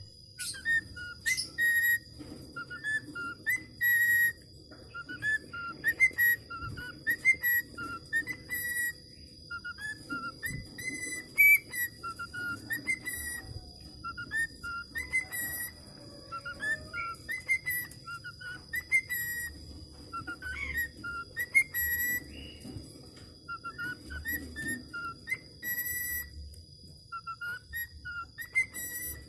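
Whistling: short, clear whistled phrases of quick rising and falling notes, repeated again and again with brief gaps, a whistle tune for a budgerigar to learn.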